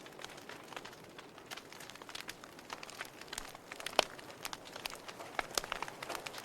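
Wood fire crackling in a fireplace: irregular sharp pops and snaps over a soft hiss, with one louder pop a little past halfway.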